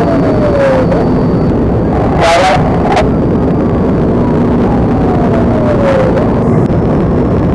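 Police siren wailing, its tone sliding slowly down and jumping back up, over a loud steady roar of cruiser engine and road noise during a pursuit. A short sharp burst of sound cuts in about two seconds in.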